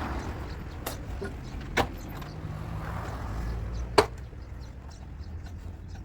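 Three sharp knocks about a second apart and then two seconds apart, the last one, about four seconds in, the loudest, over a steady low rumble.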